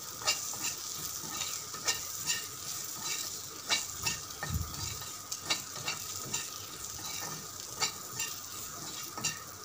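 Fried potato pieces and spices sizzling in oil in a kadai while a perforated metal spatula stirs them. The spatula scrapes and clicks against the pan about once or twice a second.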